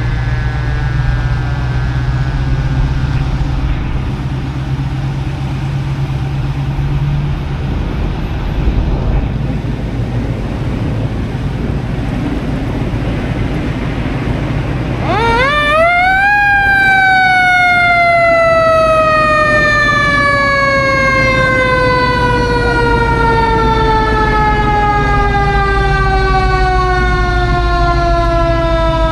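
Fire truck siren. At the start a siren tone is falling away. About fifteen seconds in another winds up quickly to a high pitch and then slowly falls off, over a steady vehicle engine rumble.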